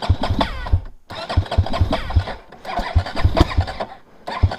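Motorcycle engine being cranked to start in three separate tries of about a second each, with short pauses between, a rapid pulsing chug in each try.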